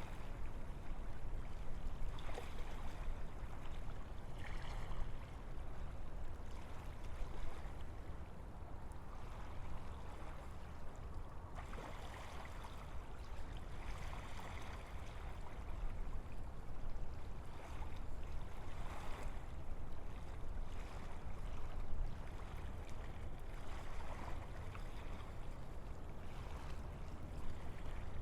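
Wind blowing through forest trees, a continuous rushing of leaves and branches that swells into soft gusts now and then, over a steady low rumble.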